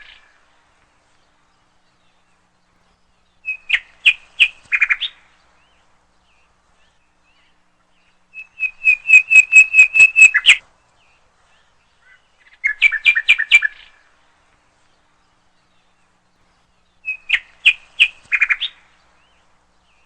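A bird calling in short phrases of rapid repeated chirping notes. Four phrases come at intervals of four to five seconds, and the one in the middle is the longest.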